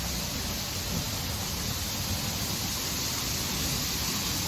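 Steady, even hiss with a low rumble underneath.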